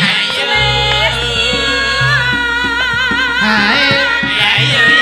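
Live music from a wayang kulit ensemble playing a song: a held melody line with wavy vibrato over a steady bass and drum pattern.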